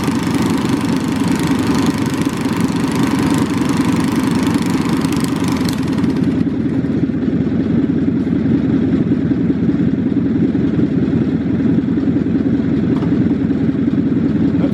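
Small lawn mower engine idling steadily after a cold start. The hissy upper part of the sound falls away about six seconds in while the engine note stays even.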